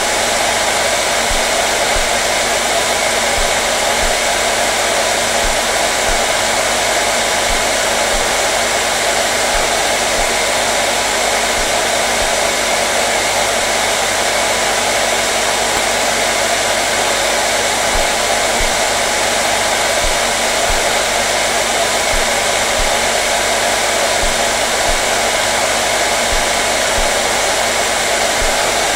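Electric hair dryer running steadily on one setting, a continuous loud whooshing rush of air with a faint motor hum.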